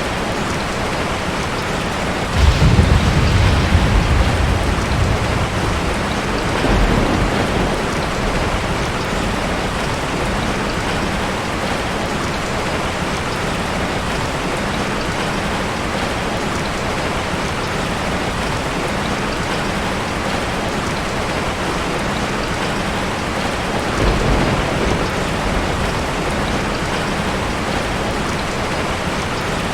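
Steady heavy rain, with a loud roll of thunder about two seconds in that fades over a few seconds, a smaller rumble soon after, and another roll of thunder near the end.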